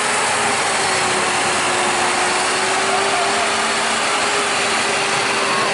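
An engine running steadily under a loud, even hiss, with a held hum that drifts slightly in pitch.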